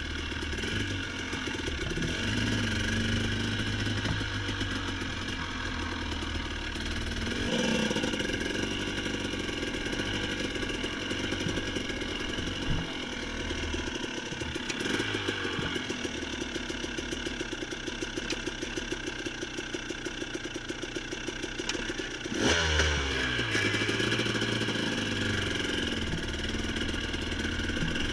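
A motorcycle engine running steadily, its pitch shifting as the throttle changes, with a quick drop in revs a little over 22 seconds in.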